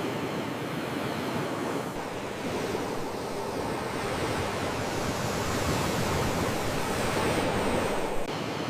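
Ocean waves washing in as a steady, continuous surf noise, with a small abrupt change just after eight seconds.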